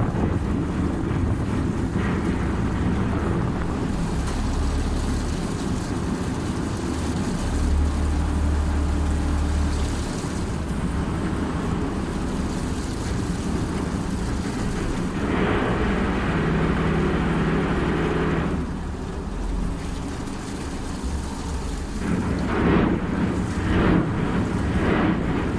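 River ferry's engine running as a steady low rumble, with a louder hissing stretch of a few seconds past the middle and a few short surges near the end.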